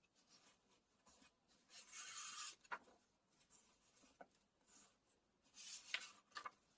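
Paper pages of a book being handled: two soft papery swishes, about two seconds in and again near the end, each followed by a light tap or click.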